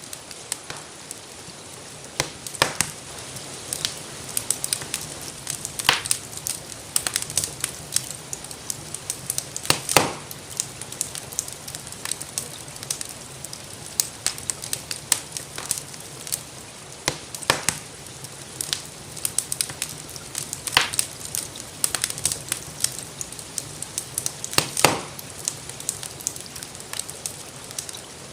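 Wood fire crackling in a fireplace, with many small pops and a few louder snaps, over the steady hiss of rainfall.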